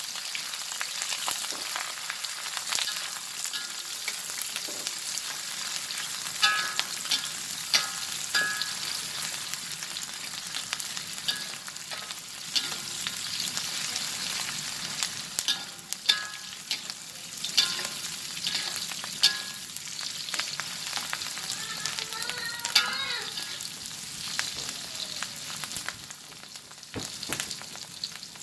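Sliced green chillies sizzling as they fry in hot oil in a wok, with a steady hiss. A metal spatula scrapes and clinks against the wok as they are stirred.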